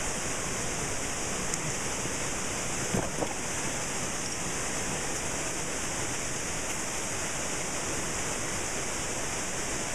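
Waterfall pouring into a rocky river pool: a steady, even rush of falling water.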